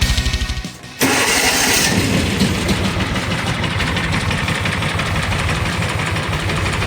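A John Deere Gator UTV's engine starts about a second in and keeps running.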